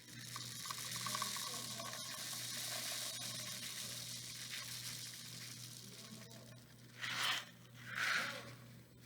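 Small craft beads being poured into a cardboard rain-stick tube, a continuous hissing patter, with rustling of the crinkled paper wrapping as it is handled. Two short, louder rustles come near the end.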